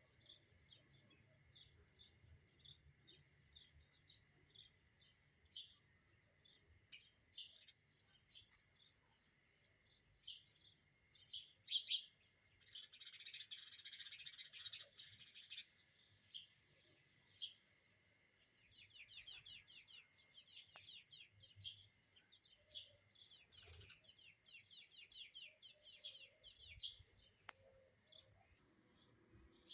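Sparrows chirping during courtship: a long series of short, faint chirps, with a dense burst of rapid chatter about twelve seconds in and quick runs of chirps in the second half.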